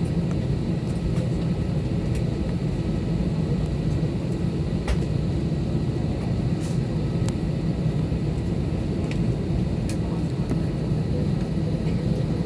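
Steady low rumble of an airliner cabin, with a few faint scattered clicks.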